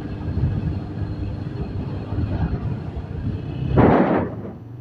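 Wind buffeting a helmet-mounted microphone over the low drone of a TVS Apache RTR motorcycle on the move, with a louder rushing burst about four seconds in.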